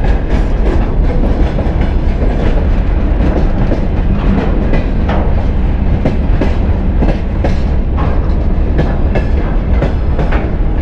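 A long freight train rolling through the station: a loud, steady low rumble of wagons with many irregular sharp clacks of wheels over the rails.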